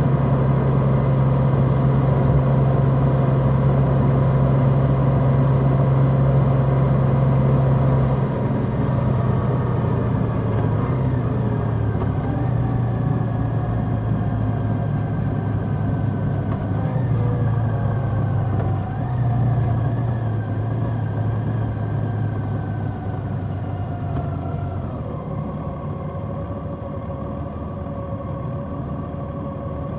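Large motorcycle's engine running under way, heard from the bike. It holds a steady note for about eight seconds, then eases off, its pitch slowly sinking, and settles lower and quieter a few seconds before the end.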